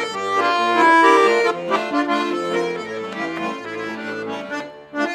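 Accordion playing an instrumental passage: a melody over held chords and low bass notes.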